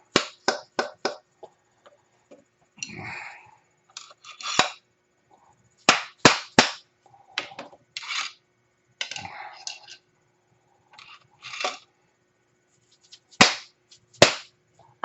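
Hammer blows on a steel A-arm, driving out the old bushings. The strikes come in short runs of a few sharp blows with pauses between, and there is softer scraping and handling noise in the gaps.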